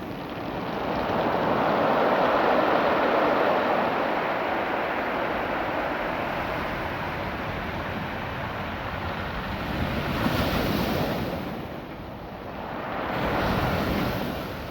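Ocean surf washing in and out over a beach of small rounded stones. The wash is loudest about two seconds in, eases off, and swells again with another wave near the end.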